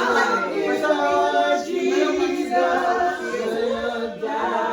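Voices singing without instruments, in long held notes.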